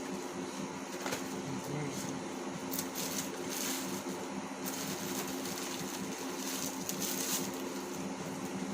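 Packaging crinkling and rustling in bursts as an item is handled and unwrapped, with a few light clicks, over a steady low hum.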